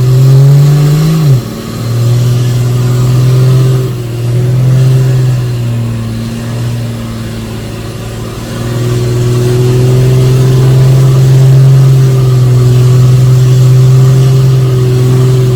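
A heavy diesel truck engine running hard. Its note climbs and then drops sharply about a second in, like a gear change, then holds fairly steady and grows louder again in the second half.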